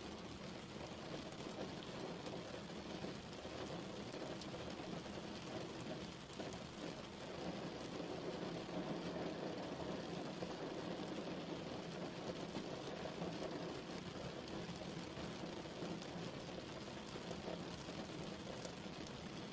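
Steady rain falling and pattering on a surface, with scattered drop ticks.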